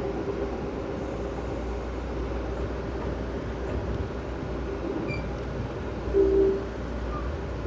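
Amtrak passenger train running at speed: a steady rumble of wheels on rail. A little past six seconds in there is a short, loud tone of two pitches lasting about half a second.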